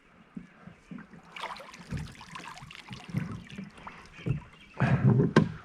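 Irregular splashing, knocking and rustling around a canoe as branches and line are worked in the water, with a few sharp clicks and a louder burst of splashing about five seconds in.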